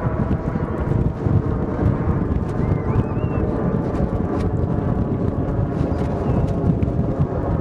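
Aircraft engine and propeller noise from a display aircraft flying overhead: a loud, steady, deep drone with a throbbing, rhythmic edge. A faint short chirp rises over it about three seconds in.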